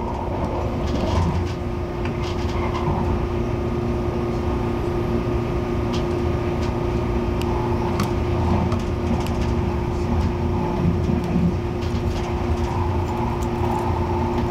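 Inside an MTR Airport Express CAF train carriage: a steady low rumble with a constant hum.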